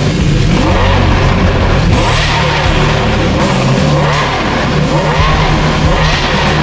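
Maserati MC12's 6.0-litre V12 engine revving, its pitch climbing and falling several times, with background music underneath.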